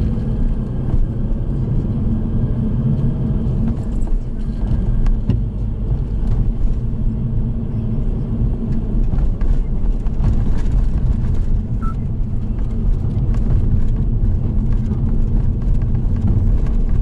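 A car driving, its engine and tyre rumble heard steadily inside the cabin, with a faint rising whine in the first few seconds as it gathers speed.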